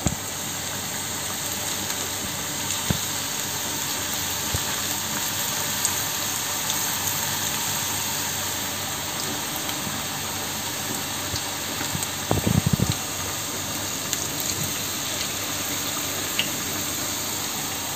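Mashed banana fritter batter deep-frying in hot oil: a steady sizzle with scattered small pops. A short, louder burst of noise comes about two-thirds of the way through.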